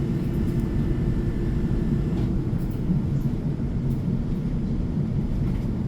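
Steady low rumble inside a South Western Railway electric passenger train's carriage as it runs between stations.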